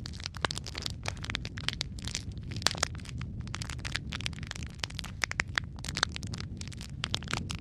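Wood fire crackling: many sharp, irregular pops and snaps over a steady low rumble of flame.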